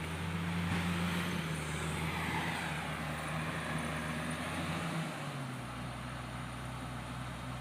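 Komatsu D68ESS bulldozer's diesel engine running steadily, its note dropping to a lower pitch about five seconds in as the revs fall.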